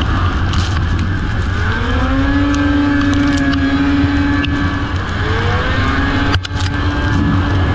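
Racing snowmobile engines running on the track over a dense, steady rumble. One engine rises in pitch and holds about two seconds in, then revs up again after about five seconds.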